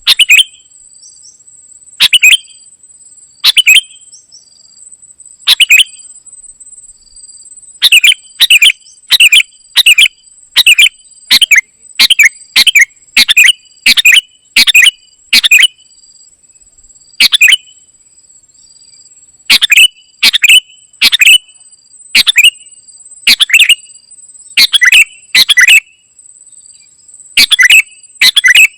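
Kutilang emas (a bulbul) calling: short, sharp chirps, some single and some in quick runs of three to five, at irregular intervals. A steady faint high-pitched whine runs behind them.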